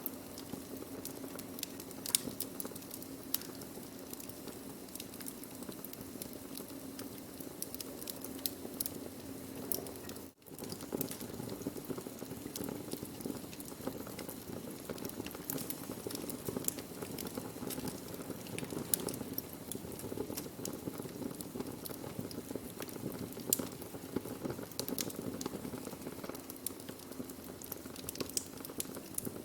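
Burning wood crackling in a fire: frequent sharp snaps and pops over a steady hiss, cutting out for an instant about ten seconds in.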